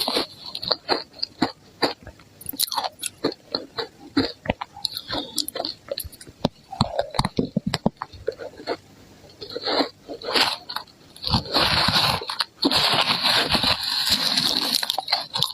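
Ice being bitten and chewed close to the microphone: sharp cracks and crunches, with longer runs of dense crunching in the second half.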